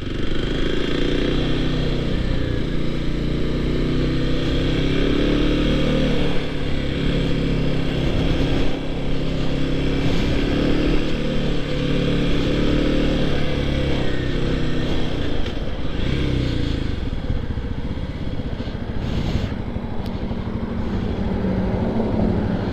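Motorcycle engine running while the bike is ridden, its pitch shifting up and down as the rider speeds up and eases off.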